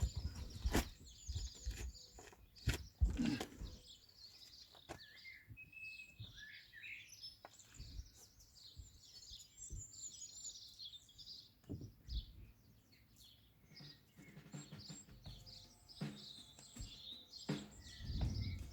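Birds chirping and singing, with short high chirps and trills throughout. Sharp clicks and knocks come in the first few seconds and again near the end.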